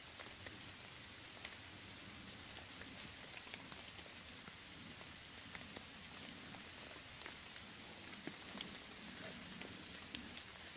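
Faint steady hiss with many scattered soft ticks, like drops landing, and one sharper tick near the end.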